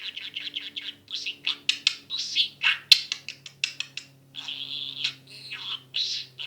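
Budgerigar chattering and warbling in a long run of quick chirps, with a sharp click about three seconds in.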